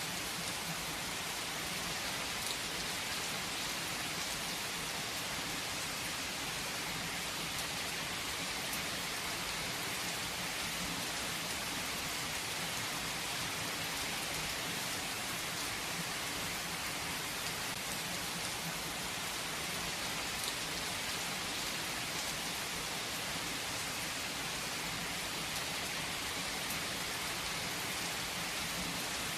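Steady rain falling, an even hiss with a few sharper drops heard now and then.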